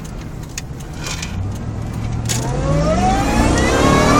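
2002 Ford Lightning's supercharged 5.4-litre V8 running steadily at first, then revving up under hard acceleration, its pitch climbing steadily over the last two seconds.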